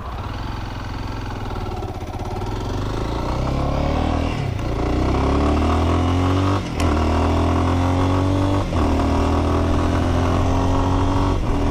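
Lifan X-Pect 200 enduro motorcycle's 200cc single-cylinder engine accelerating through the gears: the engine note climbs in pitch and breaks off briefly at three upshifts, then holds a steadier, slowly rising cruise.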